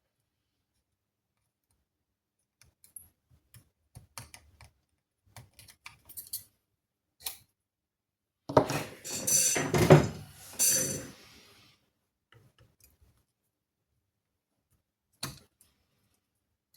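Small hand tools and parts handled on a workbench: scattered light clicks and taps, then about three seconds of louder clattering and rattling about halfway through, and a single click near the end.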